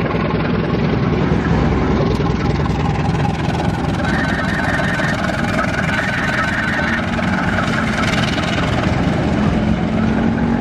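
CC 204 diesel-electric locomotive engine running steadily close by. A rapidly pulsing high tone sounds for a few seconds in the middle.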